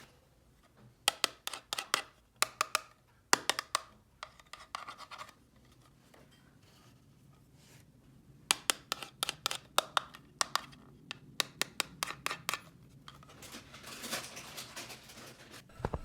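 Small hard plastic pieces clicking and tapping as they are handled, in two quick flurries, followed by a brief rustle near the end.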